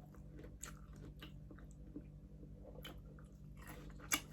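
Faint close-up chewing of crispy pata, deep-fried pork knuckle, with scattered small crackles and one sharper click near the end, over a steady low hum.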